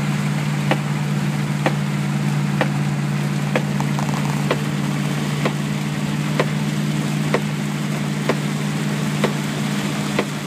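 Triumph Stag's 3.0-litre V8 droning steadily at cruise, heard from inside the cabin over a wash of rain noise. A sharp tick sounds about once a second, evenly spaced.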